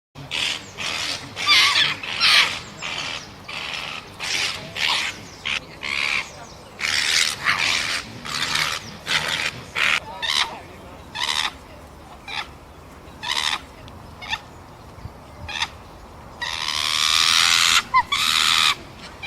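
A primate calling in a series of short, sharp calls, irregularly spaced, with one longer drawn-out call near the end.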